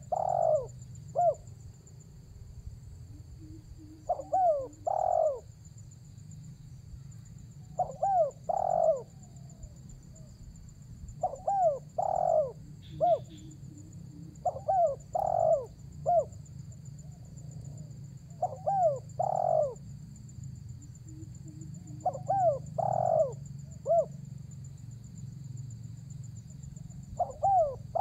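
Spotted dove (tekukur) giving its cooing call to a rival: a short phrase of three or four arched coos, repeated about every three and a half to four seconds. Under it runs a steady low hum, with faint steady high tones.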